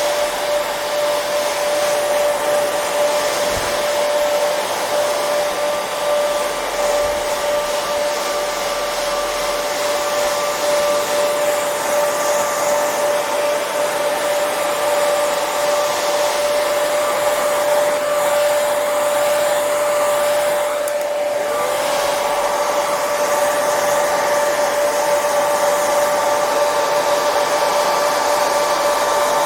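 Hair dryer running steadily: blowing air with a constant motor whine. About two-thirds of the way through, the sound dips for a moment, and the whine glides back up to its pitch.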